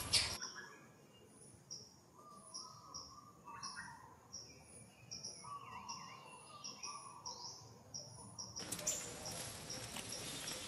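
Birds chirping in the background, with a short high note repeating about twice a second and a few warbling calls. A brief loud burst right at the start, and a fuller hiss of background noise returning near the end.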